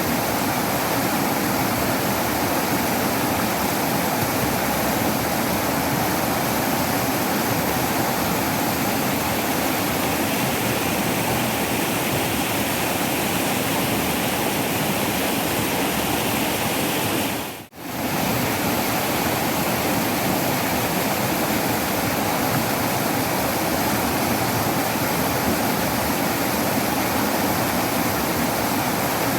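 Waterfall rushing steadily, a dense even roar of falling water that dips out for a moment a little past halfway and comes straight back.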